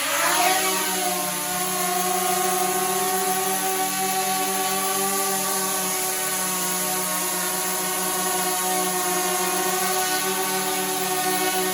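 DJI Mavic Mini quadcopter's motors, fitted with Parrot Anafi propellers, rising in pitch during the first half second as it spins up, then a steady buzzing whine as it hovers.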